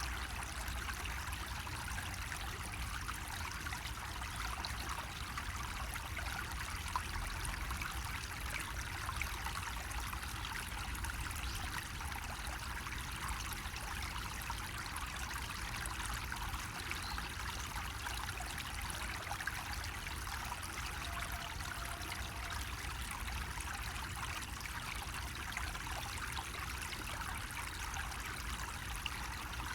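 Water running steadily from a bamboo spout (kakehi), trickling and splashing without a break, over a low steady rumble.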